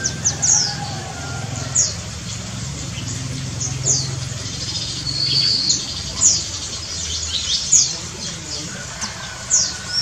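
Birds chirping: about ten short, high notes that drop sharply in pitch, scattered through, with a brief trill about five seconds in, over a low steady hum.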